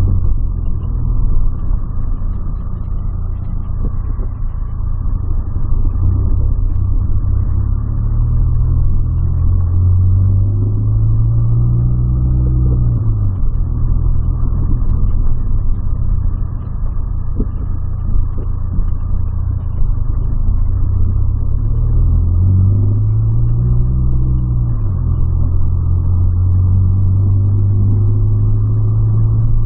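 A 2008 Volkswagen Polo's engine and road noise heard from inside the cabin while driving, as a steady low drone. The engine note climbs twice, about ten and twenty-two seconds in, and falls back each time after a few seconds as the car accelerates and eases off.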